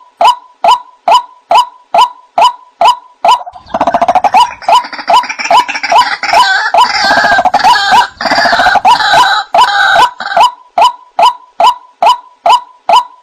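White-breasted waterhen calling, a short "kwak" repeated about twice a second. From about 3.5 s to 10.5 s a louder chorus of overlapping calls joins in.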